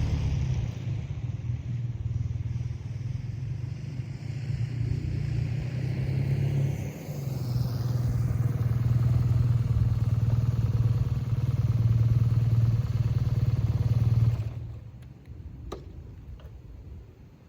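BMW R 12 G/S boxer-twin motorcycle engine running steadily through its exhaust, its level rising and falling a little, then stopping abruptly about fourteen seconds in. A single faint click follows.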